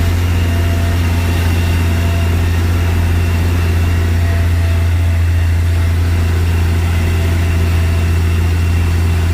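Farm tractor engine running steadily while mowing hay, a constant low drone with no change in pitch.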